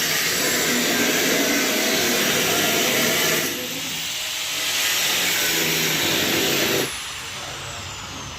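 A handheld power tool running in two stretches with a loud hiss and a high motor whine; near the end the work stops and the whine slides down as the motor winds down.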